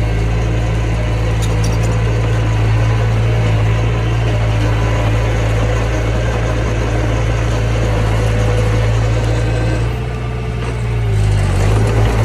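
Mini bulldozer's diesel engine running steadily under work. About ten seconds in, the engine note drops briefly, then wavers in pitch as it picks up again.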